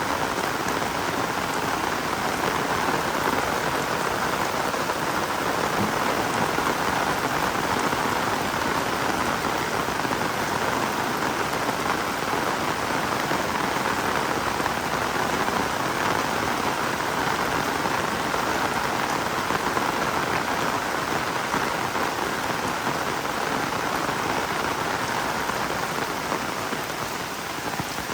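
Heavy rain falling steadily, a dense, even sound of drops on the ground and surfaces that stays constant throughout.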